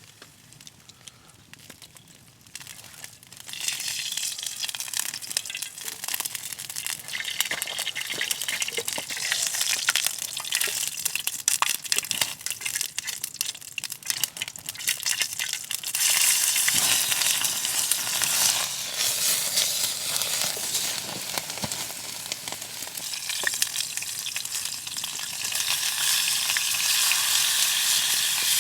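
Meat frying over a campfire, a steady sizzle thick with small crackles, starting up about three seconds in and growing louder later on.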